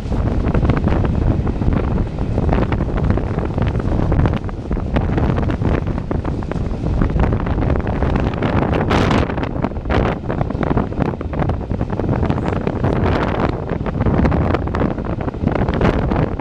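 Wind buffeting a microphone held out of a moving train's window, over the steady rumble of the train running along the track.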